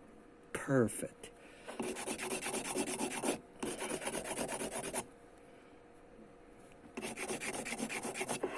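A small bamboo piece cut from a chopstick being sanded to shape for a ukulele: three spells of quick back-and-forth rasping strokes with short pauses between.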